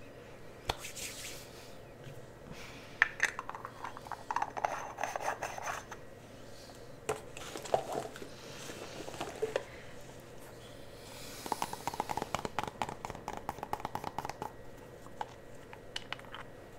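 Close-miked scratching and tapping in three bursts of dense, crackly clicks, with quieter pauses between.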